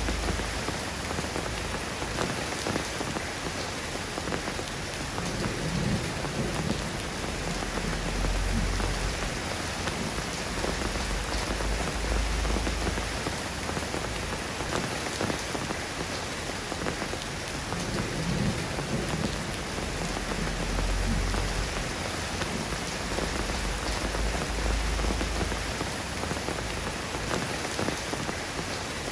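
Steady rain falling in an even hiss, with distant thunder rumbling low twice, swelling and fading.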